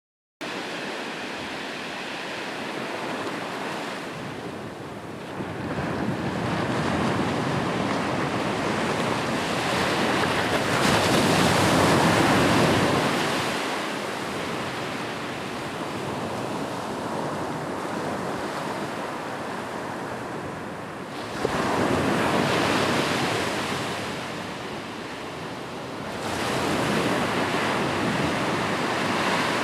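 Ocean surf breaking and washing up a beach, the rush of water swelling and ebbing in slow surges; the biggest wave peaks about twelve seconds in, with two smaller ones near the end.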